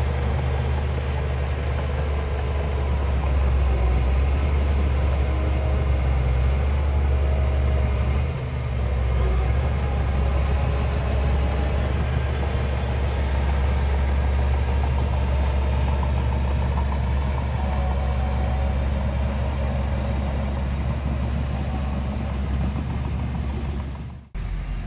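Heavy diesel engine of an earthmoving machine running steadily with a deep, low drone. The sound drops out briefly just before the end.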